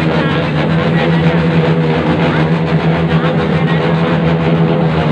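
Many motorcycles revving their loud exhausts together, a dense, steady, unbroken din.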